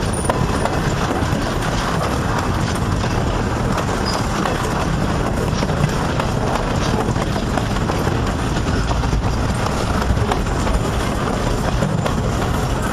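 Loaded railroad flatcars of a long freight train rolling past at close range: a steady rumble of steel wheels on the rails, with occasional clacks.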